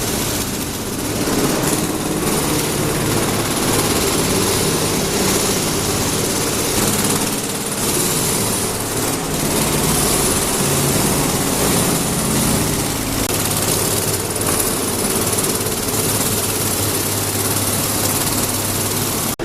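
Engine-driven track repair machinery running: a steady engine drone with a thin high whine above it and a dense mechanical clatter.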